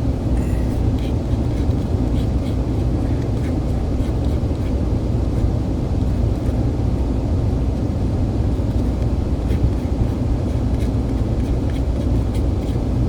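Steady low rumble of a moving train, with a few faint ticks over it.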